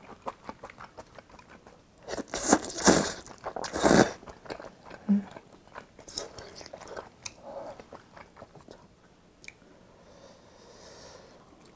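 Close-miked chewing and wet mouth sounds of someone eating budae jjigae (ham, sausage and rice), with a run of louder bites and smacks about two to four seconds in, then growing quieter.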